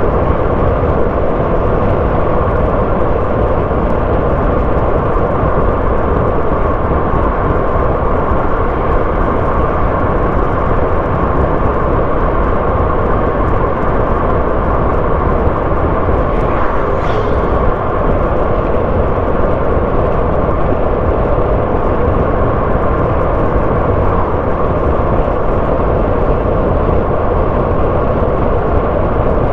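A car driving steadily along a road: constant engine and tyre noise, with a brief higher hiss a little past halfway.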